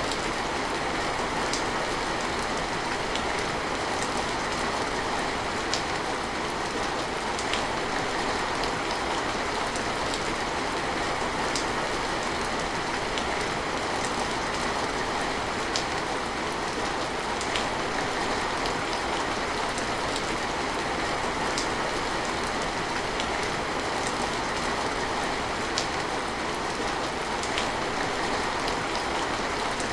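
Steady rain falling, an even hiss with a sharp drop striking every couple of seconds.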